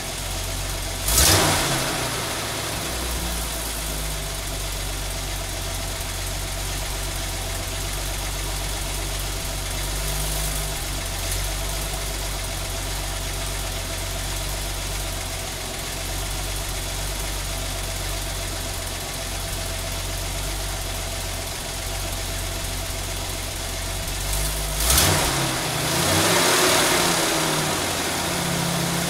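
Jeep CJ's straight-six engine idling steadily, blipped up in revs twice: briefly about a second in, and again near the end, when it holds the higher revs for a couple of seconds before settling.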